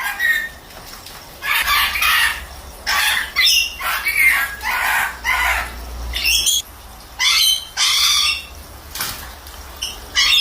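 Pet parrot bathing, flapping its wings in about a dozen short bursts, with squawks among them.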